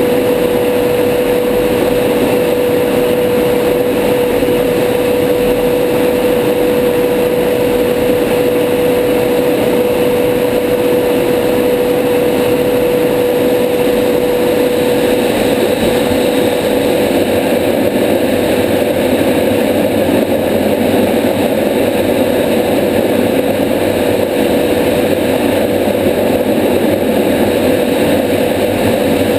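Steady in-cockpit noise of a Tornado GR4 in fast low-level flight: the drone of its twin RB199 turbofans and rushing air, with a constant steady tone over it.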